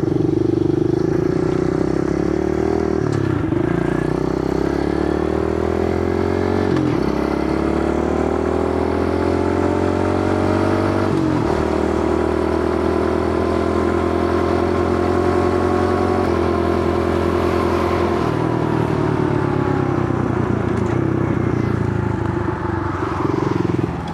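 Kawasaki KLX110 pit bike's small single-cylinder four-stroke engine under way, revving up through the gears with a brief dip at each shift about 3, 7 and 11 seconds in. It then holds a steady speed before easing off and slowing down near the end.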